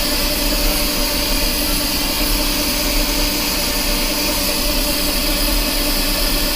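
Metal lathe taking a heavy roughing cut on a steel shaft with an insert tool, running steadily with a hum and several steady tones under a constant high hiss; the machine is audibly under load, near the limit of what the insert can handle.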